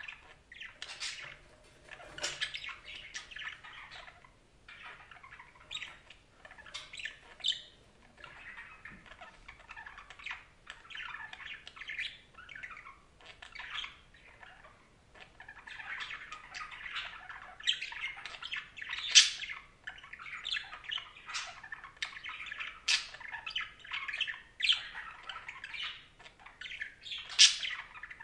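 Budgerigars chattering continuously in warbling, chirping bursts with sharp squawks, busier and louder in the second half.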